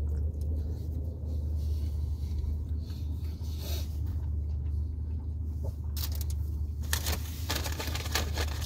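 Steady low rumble of a car engine idling. A few clicks and a short burst of noise come about six to eight seconds in.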